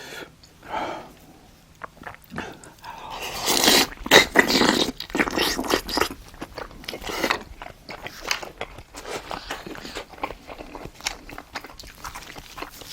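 Close-miked eating sounds of a person eating spicy braised monkfish (agujjim): irregular chewing and wet mouth smacks, with a louder noisy stretch about three to five seconds in.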